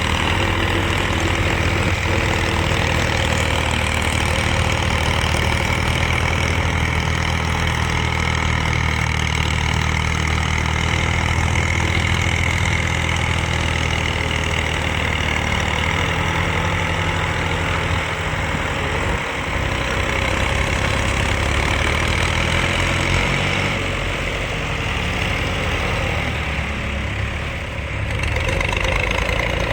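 JCB 3DX backhoe loader's diesel engine running steadily while it works, with a brief dip about two-thirds through and a slightly softer stretch near the end.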